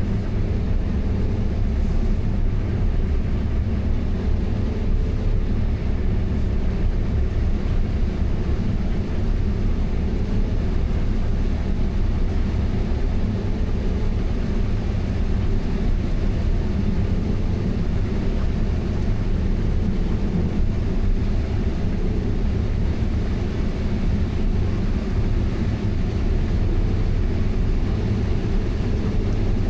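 Combine harvester running steadily while harvesting corn, heard from inside the cab as an even, low drone.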